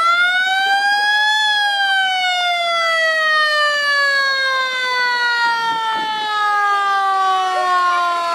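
A siren wailing: one tone that climbs for about a second and a half, then slowly sinks in pitch through the rest.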